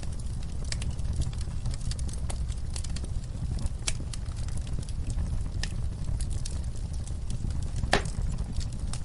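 Wood fire burning in a fireplace: a steady low rumble with scattered sharp crackles and one louder pop about eight seconds in.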